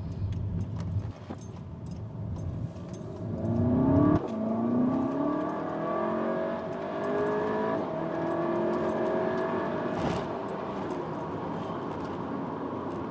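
SEAT Leon Cupra's turbocharged four-cylinder petrol engine accelerating hard, heard from inside the cabin. Revs climb steeply from about three seconds in and break off a second later at a gear change, then climb again more slowly.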